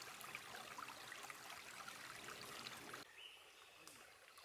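Faint trickling, bubbling water that cuts off suddenly about three seconds in.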